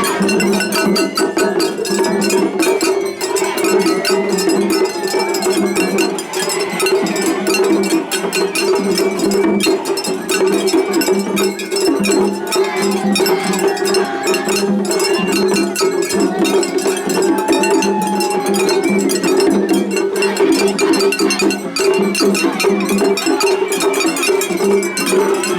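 Japanese festival hayashi music. A small hand gong (atarigane) is struck in a fast, continuous metallic rhythm over steady pitched tones.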